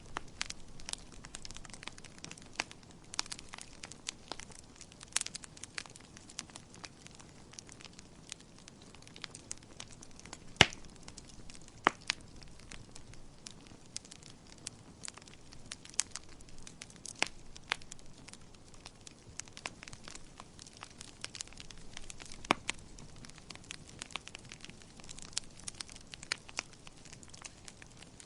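Wood fire in a fireplace crackling, with irregular sharp pops over a low, even hiss; two louder pops about ten and twelve seconds in.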